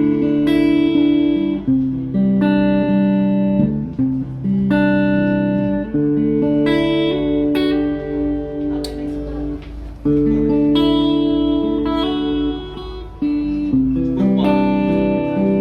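PRS SE McCarty 594 Singlecut electric guitar playing clean, ringing chords. A new chord comes every second or two and each one sustains until the next.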